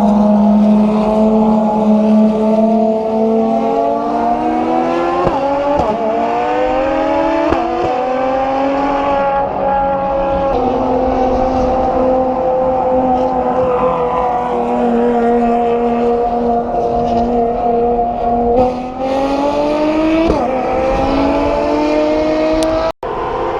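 Ferrari FXX Evolution's V12 engine running hard, its pitch climbing and easing through the revs, with quick gear changes about five, seven and a half and twenty seconds in. The sound cuts out for an instant near the end.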